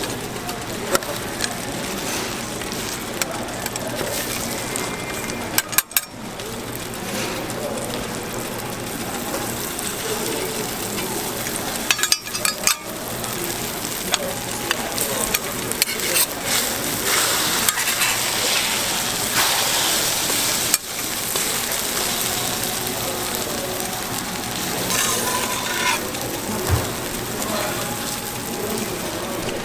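Food sizzling steadily on a hot griddle for street toast, with occasional clicks and clinks of cooking utensils.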